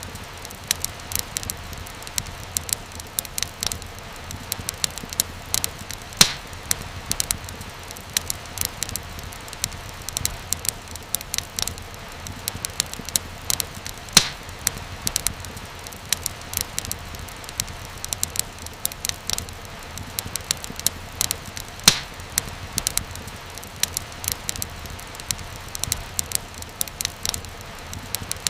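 Wood fire crackling steadily: a soft hiss with many small snaps each second and an occasional louder pop.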